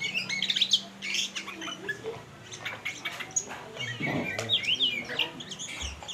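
Songbirds singing: a dense, continuous stream of quick chirps, whistled upward and downward glides and harsher squawky notes.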